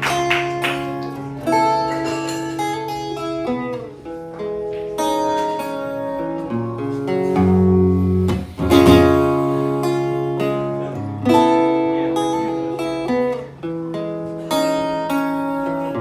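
Acoustic guitar played without singing: plucked and strummed chords ringing out, changing every second or two.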